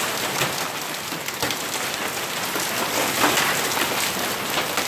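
Heavy hail, about quarter size, pelting down steadily: a dense patter of many small hits on hard surfaces, falling as thick as rain.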